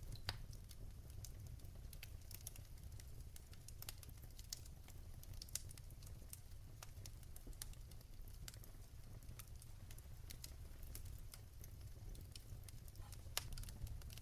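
Fire in a fireplace crackling: scattered sharp pops and snaps, a few louder than the rest, over a low steady rumble.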